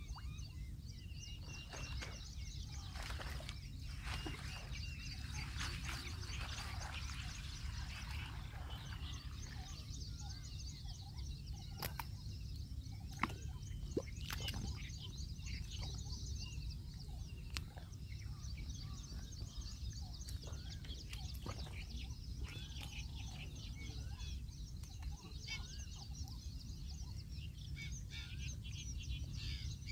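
Birds chirping and calling continuously over a steady low rumble, with two sharp clicks about a second apart midway through.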